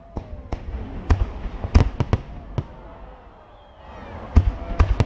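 Aerial fireworks bursting in a string of sharp, irregular bangs, with a lull about three seconds in before more bangs near the end.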